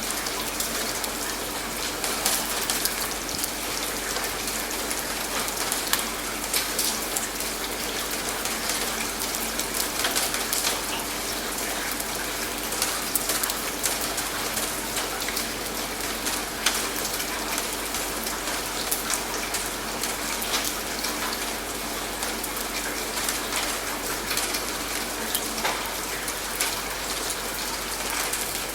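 Steady rain falling, with many separate drops ticking on a surface over a constant hiss.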